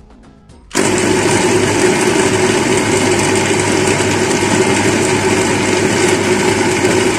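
Electric blender switched on about a second in and running at a steady speed, blending calamansi pulp with vinegar and sugar.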